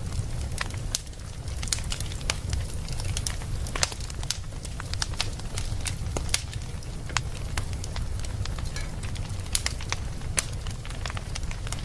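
Wood fire burning in a fireplace, with frequent sharp crackles and pops at irregular intervals over a steady low rumble.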